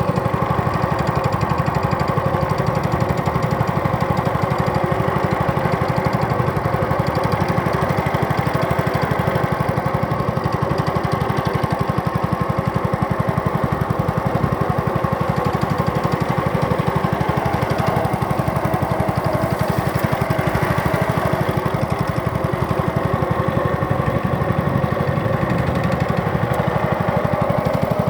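A small boat engine running steadily at a constant speed, with a fast, even beat of firing strokes.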